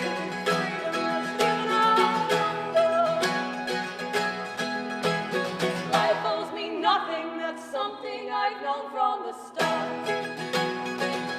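Live song by a folk duo: acoustic guitars strummed with a sung line over them. The strumming drops away for a few seconds past the middle, leaving wavering held notes, then comes back in full about ten seconds in.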